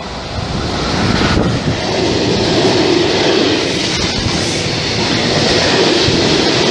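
Freight train, hauled by an electric locomotive, passing close by: the noise grows over the first second as the locomotive goes past. Then comes a steady rumble and clatter of the steel-laden flat wagons' wheels on the rails.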